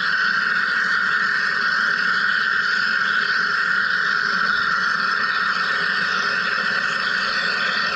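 Wire EDM (wire electrical discharge machine) cutting, its spark discharge giving a steady, dense buzzing crackle that does not let up.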